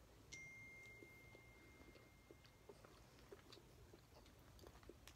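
Quiet, close chewing of a chocolate candy: faint, irregular mouth clicks and smacks. A thin, faint high tone sounds steadily from just after the start until about halfway through.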